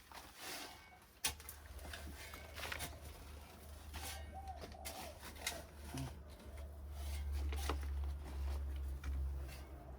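Loose garden soil being mixed and turned, with repeated short scrapes and rustles, over a steady low rumble that starts about a second in and grows stronger in the second half. A bird calls faintly about four seconds in.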